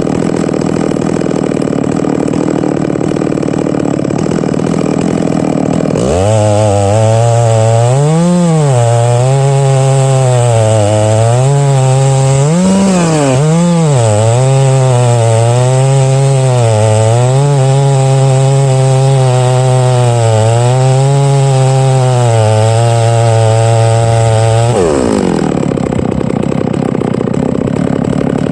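Large-displacement two-stroke chainsaw milling a cut through oak: it runs low for a few seconds, then goes to full throttle about six seconds in and holds a high steady pitch under load, dipping and picking up a few times. Near the end the throttle is let off and the revs fall away.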